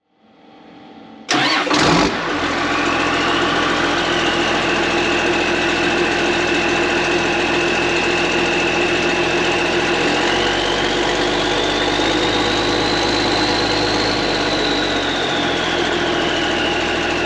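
Tractor engine cranked and starting, catching about a second and a half in, then idling loudly through a straight exhaust pipe with no muffler. A high whine drifts up and down in pitch over the steady idle.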